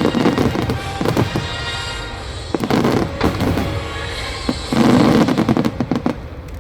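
Fireworks bursting and crackling, with heavy booms at the start and again about five seconds in, and music playing alongside.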